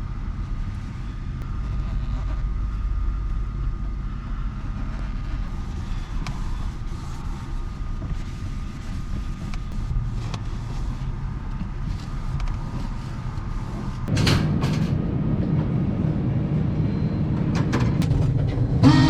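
Steady low rumble of a truck's engine and road noise heard inside the cab while driving; it grows louder about fourteen seconds in, with a few short clicks near the end.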